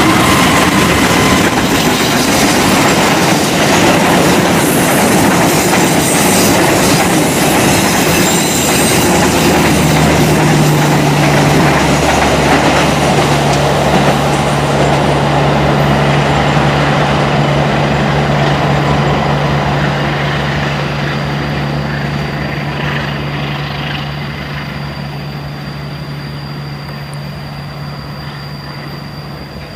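Passenger train hauled by a CC206 diesel-electric locomotive passing close by, its carriages rumbling and clattering along the track. A steady low hum joins about ten seconds in, and the sound fades over the last ten seconds as the train moves away.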